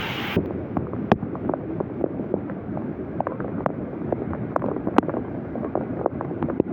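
Floodwater rushing, with wind buffeting the microphone and many scattered light taps and clicks. A louder hiss cuts off abruptly about half a second in.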